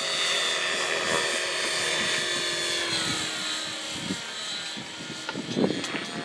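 Helicopter running with a steady high whine that drops in pitch about three seconds in and grows quieter as it winds down. A few clicks and knocks come near the end.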